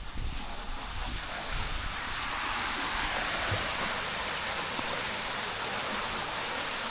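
Steady rush of a waterfall and its stream, swelling slightly about two seconds in and then holding.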